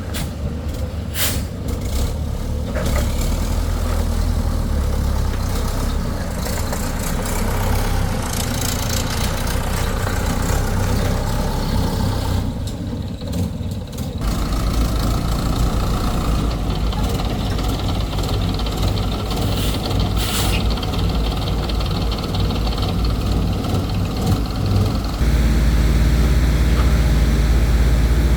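Excavator engine running steadily under varying load, its note shifting about halfway through and growing louder near the end, with a few knocks early in.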